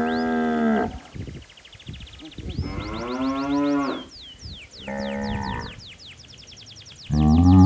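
Cows mooing, calling to their calves: four moos, each under a second to about a second and a half long, the loudest starting near the end.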